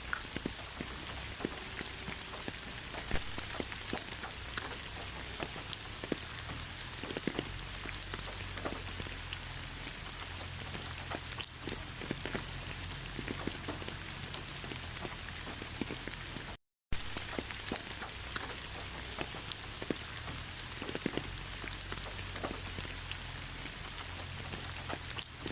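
Steady rain falling, with many individual drops pattering close up over an even hiss and a low rumble underneath. The sound cuts out suddenly for a fraction of a second about two-thirds of the way through.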